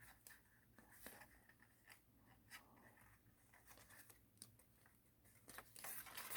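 Faint rustling and crinkling of thin origami paper being folded and creased by hand, with scattered soft ticks. It grows denser and a little louder near the end.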